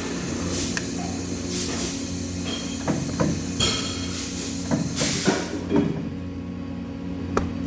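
Workshop machinery hum with several steady low tones, broken by a few short hissing bursts and some sharp knocks, as in metal fabrication and TIG welding work.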